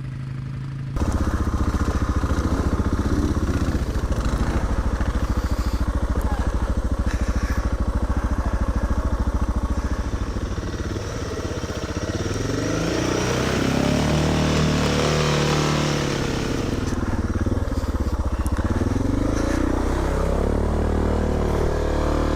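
Off-road vehicle engines running, starting abruptly about a second in. From about twelve seconds in they rev, with the pitch rising and falling, and a rush of hiss rides over them for a few seconds.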